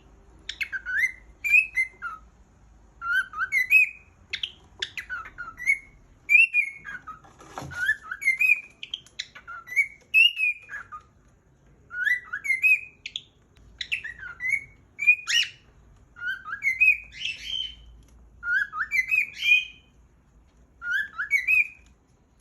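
Cockatiel singing: phrase after phrase of rising and falling whistled notes, with short pauses between the phrases.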